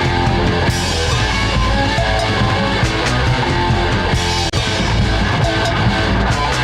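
Late-1970s rock band recording playing: electric guitar, bass guitar and drum kit.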